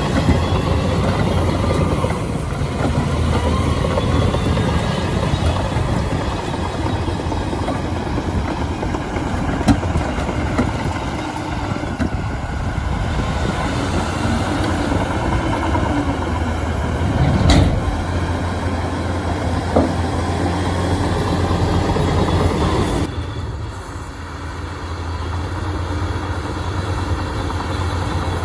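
Shantui bulldozer's diesel engine running steadily with a deep hum. A single sharp knock comes about two-thirds through, and the engine quietens a few seconds before the end.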